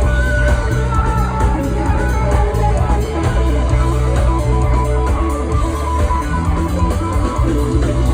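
Live funk rock band playing an instrumental passage: electric guitar lines over bass and drums.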